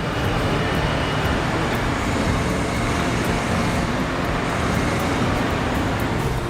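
Heavy diesel machinery or vehicle engine running steadily, with a dense, even mechanical and road noise.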